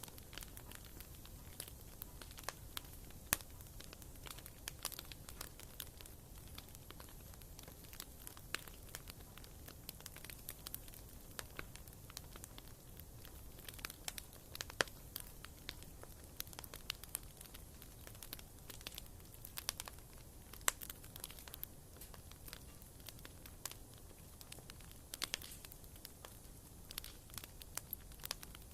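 Wood fire burning in a fireplace, crackling with irregular sharp pops of varying strength over a faint, steady low noise.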